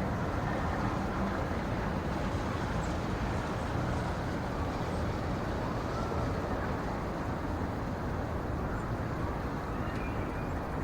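Steady, even rumbling noise of a winter-forest ambience, with a few faint brief chirps, one about six seconds in and another near the end.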